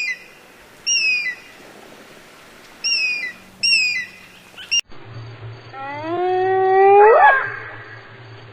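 Animal calls from two spliced clips: first four short, high calls that each fall in pitch, then a longer, louder pitched call that slides upward and peaks about two-thirds of the way in, with a fainter call starting near the end.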